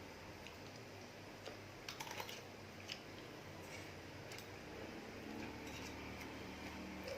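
Eating sounds: scattered small clicks and taps of utensils on a dish, with soft chewing, a cluster of quick clicks about two seconds in.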